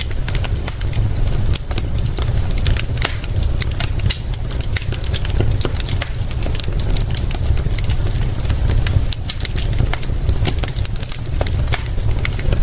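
Wood fire crackling with many sharp, irregular pops, over a steady low rumble and a hiss of rain.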